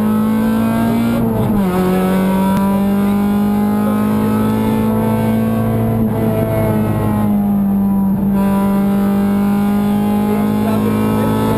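Honda Civic VTi rally car's 1.6-litre VTEC four-cylinder engine, heard from inside the stripped cabin, running at high revs under full load. Its pitch drops once, about a second and a half in, at a gear change, then holds high and climbs slowly.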